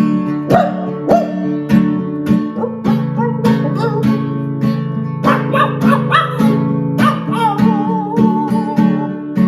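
Acoustic guitar strummed in a steady rhythm, about two strums a second, with a wavering held note over it near the end.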